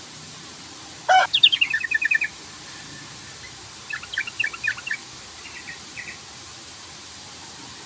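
Yellow-vented bulbul (trucukan) giving chattering call phrases of quick notes. A loud phrase starts sharply about a second in, a second bout follows around four seconds, and a few fainter notes come near six seconds.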